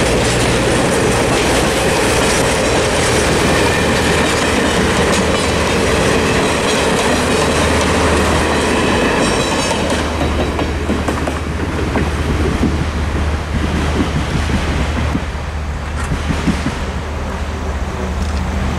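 Passenger railroad cars rolling through a grade crossing, their wheels clicking over the rail joints, with a mechanical crossing bell ringing. The rolling noise thins out about ten seconds in as the last car clears.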